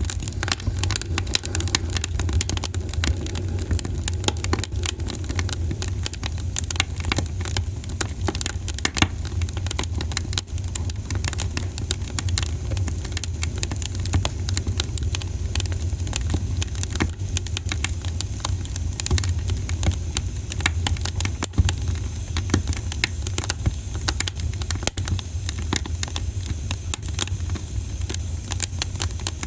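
Campfire crackling: dense, irregular pops and snaps of burning wood over a steady low rumble.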